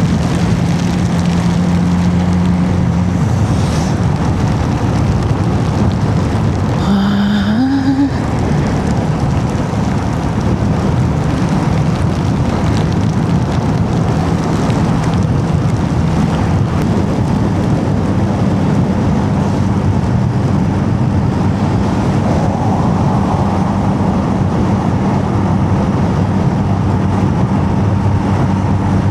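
Motorcycle engine running steadily under way, with wind rush and tyre hiss on a wet road; about seven seconds in the engine briefly revs up, rising in pitch.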